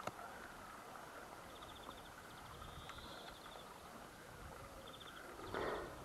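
Faint outdoor ambience with a small bird singing a short, high, rapid trill, heard twice. A brief rustle comes near the end.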